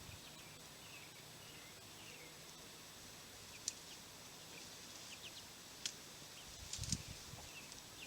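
Young chicks peeping faintly, light scattered chirps here and there. Two sharp clicks come in the middle, and a brief low rustle comes just before the end.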